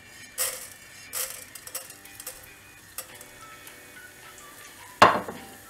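Urad dal poured from a bowl into hot oil in a nonstick pot, rattling in with two short bursts near the start. The dal then sizzles faintly as it fries, and a sharp knock about five seconds in dies away over half a second.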